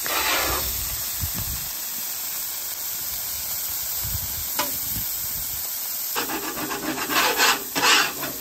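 Burger patties and beef fat frying on a Blackstone steel flat-top griddle with a steady sizzle. From about six seconds in, a metal spatula scrapes across the steel cooktop in quick, repeated strokes, louder than the sizzle.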